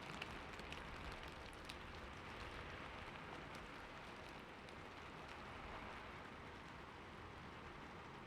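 Steady light rain falling, an even hiss with scattered soft drop ticks, a few more of them in the first couple of seconds.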